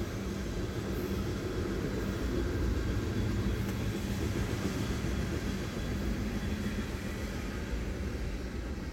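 Freight train of tank cars rolling past: a steady rumble of steel wheels on rail, easing slightly near the end as the tail of the train goes by.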